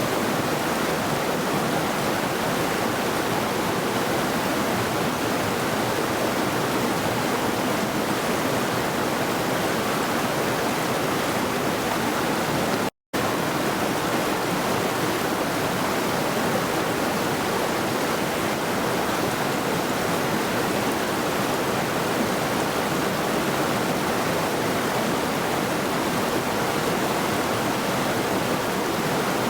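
The Middle Saluda River flowing, a steady, even rush of water with no change. The sound cuts out completely for a split second about halfway through.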